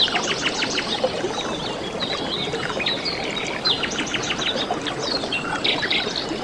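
Several birds chirping and trilling in quick, overlapping calls, over a steady background hiss.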